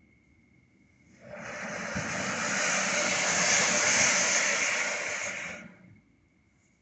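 A hissing rush of noise that swells up about a second in, holds for about four seconds and fades away.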